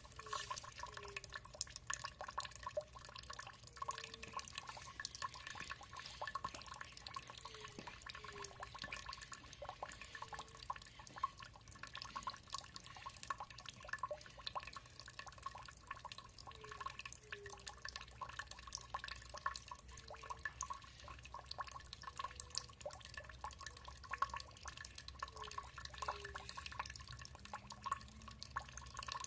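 Water trickling and dripping: a dense, irregular patter of small splashes. Short low notes recur every few seconds beneath it.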